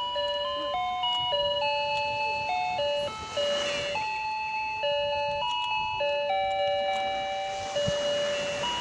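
Simple electronic melody of plain beeping notes, one note at a time at a steady pace, like a cheap sound chip's tune.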